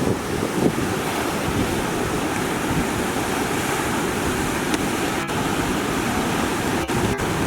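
Heavy storm surf breaking along the shore in typhoon swell, a continuous rushing wash with wind buffeting the microphone. The sound drops out for an instant a few times in the second half.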